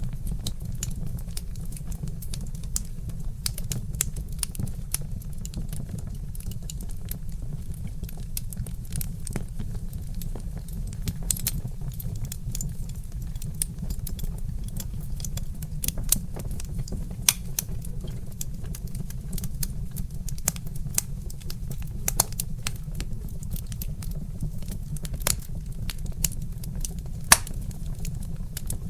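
Wood fire crackling: a steady run of small sharp snaps and pops from burning logs, with a few louder pops scattered through, over a steady low rumble.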